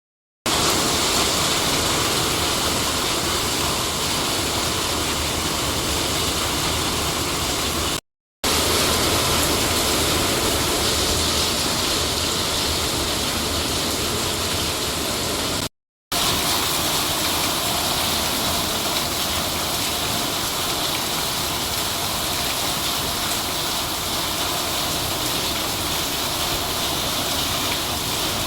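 Heavy monsoon rain pouring down, a steady loud rush of noise. It drops out briefly twice, about 8 and 16 seconds in.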